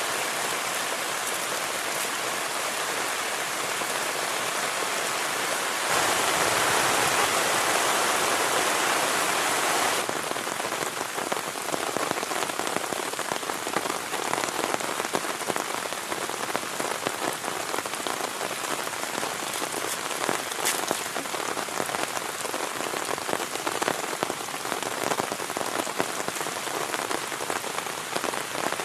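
Heavy rain falling steadily. It grows louder and fuller for about four seconds a quarter of the way in, starting and stopping abruptly, and then settles into a dense patter of individual drops.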